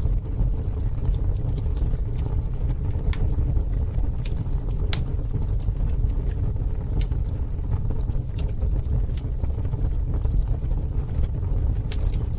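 Campfire burning: a steady low rumble with scattered sharp crackles and pops of the burning wood, the loudest pop about five seconds in.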